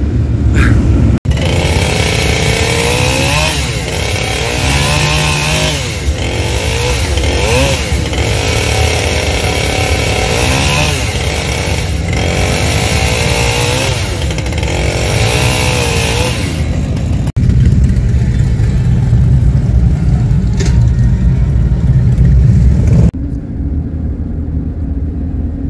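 Engines revving up and down repeatedly, then a steady low vehicle rumble, joined by sharp cuts between clips.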